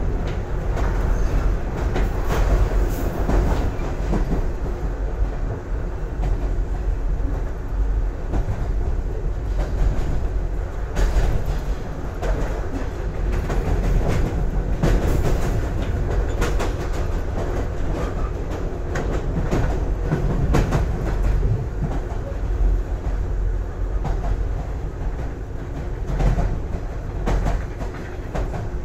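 A JR 113 series electric train running at speed, heard from inside the carriage: a steady rumble of wheels on rail with irregular clicks as the wheels pass over rail joints, and a steady hum underneath.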